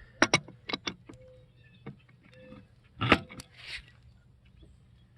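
Sharp metallic clicks and knocks from the gas meter's shutoff valve being worked by hand: two quick clicks at the start, a few more over the next two seconds, and a louder cluster about three seconds in.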